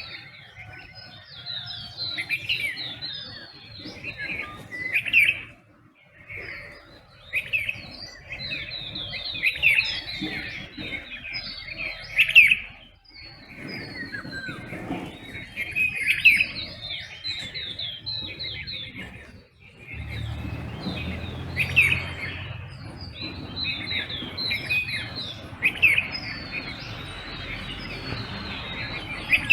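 Dawn chorus of several songbirds chirping and calling over one another in short, overlapping phrases. About two-thirds of the way in, a low steady rumble joins beneath the birds.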